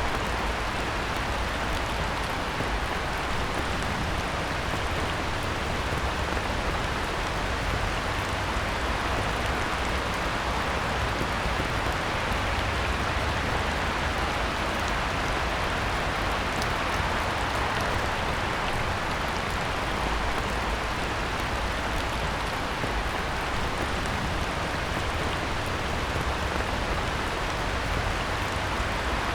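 Heavy rain falling steadily on a pond, a dense, even hiss of drops on the water with a low rumble underneath.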